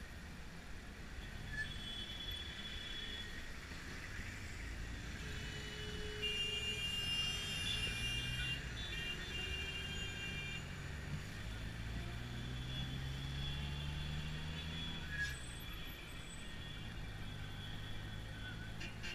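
Taxi engine and road traffic heard from inside the cab, the engine pitch rising steadily as the car speeds up in the second half. A high, steady multi-tone squeal sounds from about six to ten seconds in.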